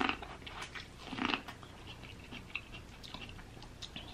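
Garlic-buttered corn on the cob being bitten and chewed, with crisp bites and wet mouth sounds. The louder bites come in the first second and a half, followed by softer chewing clicks.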